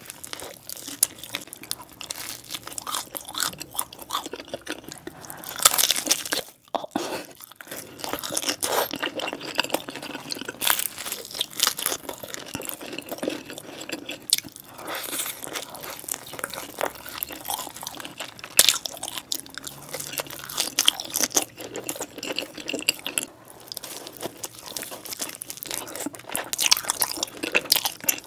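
Close-miked chewing and biting of pizza: crisp crust crunching and crackling with each bite and chew, with a short pause about seven seconds in.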